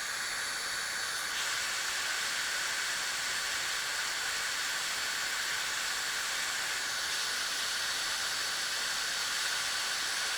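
Hot air gun blowing, a steady hiss with a faint high whine, set to 350 degrees to melt the solder in a heat-shrink solder connector.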